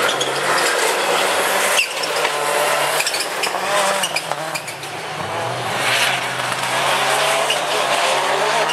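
Rallycross Super Car engines racing, their pitch climbing and falling through gear changes and lifts, with a sudden cut about two seconds in, sharp pops and cracks, and tyre squeal.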